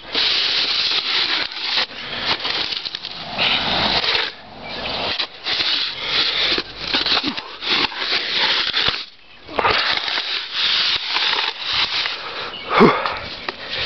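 Blizzard wind gusting and buffeting the microphone: a loud rushing noise that swells and eases irregularly, dropping away briefly twice.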